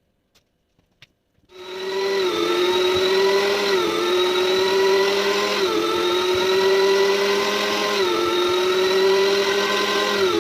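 A small electric kitchen appliance's motor, such as a blender or food processor, switches on about 1.5 seconds in and runs loudly and steadily. Its pitch dips briefly about every two seconds, as if under changing load from the food being processed. A few faint clicks come before it starts.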